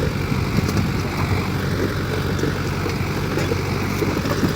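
Sonalika DI 55 RX tractor's 4087 cc diesel engine running at a steady speed.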